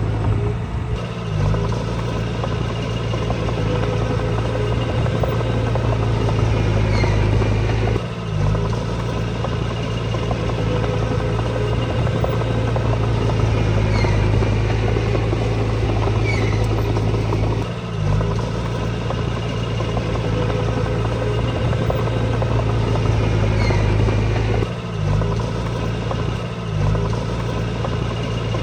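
Diesel engine of heavy earthmoving machinery running steadily at a constant speed, with a few brief dips in level.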